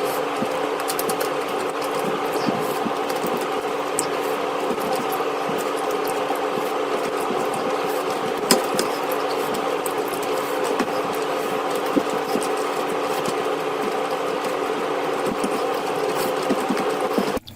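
A steady mechanical hum with several even tones, running unchanged, with a few faint clicks over it; it cuts off suddenly at the end.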